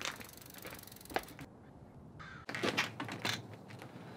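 Scattered clicks, rattles and knocks of bicycle fenders being taken off a road bike, with a cluster of knocks about two and a half seconds in.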